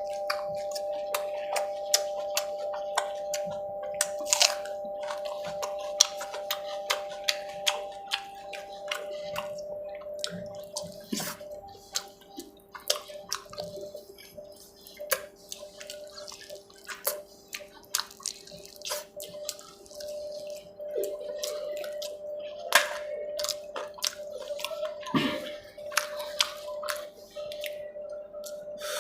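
Close-miked eating sounds of a person eating rice and fish curry: wet chewing, lip smacks and many small sharp clicks, irregular throughout, over a steady background hum of a few held tones.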